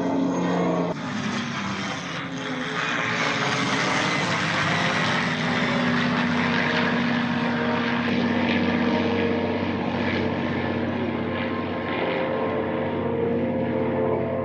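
Aircraft flying over: a steady engine drone under a broad rushing noise that holds throughout.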